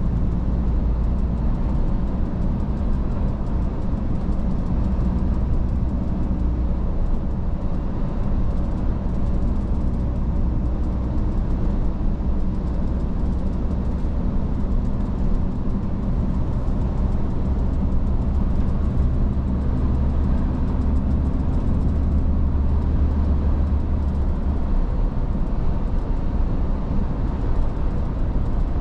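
Iveco S-Way truck on the move: a steady low engine drone mixed with tyre and road noise.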